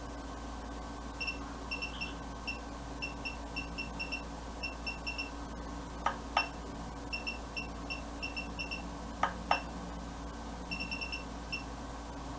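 Electronic beeper of a Wanptek DC bench power supply: short high beeps, singly and in quick runs of two to four. Two pairs of sharp clicks come about six and nine seconds in.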